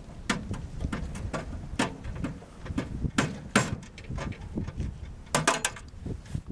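Irregular sharp metal knocks and clicks: tools striking out the knockouts in a steel electrical meter base so a pipe nipple can fit between the boxes. The loudest strikes come in the middle and again near the end.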